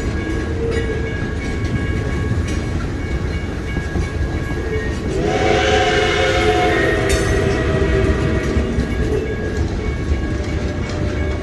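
Polson No. 2 steam logging locomotive running with its train, a steady rumble, with its steam whistle blowing a chord for about two seconds about halfway through.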